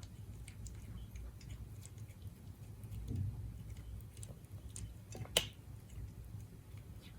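Siberian cat chewing its dinner: scattered small wet crunches and clicks, with one sharper click a little past five seconds in.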